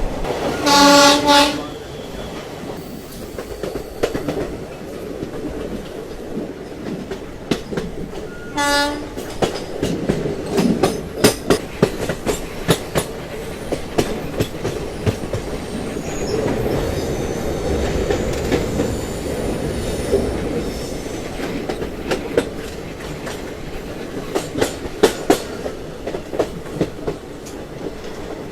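A train horn sounds a loud blast of about a second, then a short second blast, over a steady rumble of a running train. Its wheels then click rhythmically over the rail joints.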